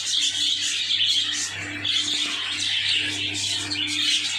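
A colony of small cage birds, budgerigars among them, chattering and chirping continuously, many calls overlapping. A steady low hum runs underneath.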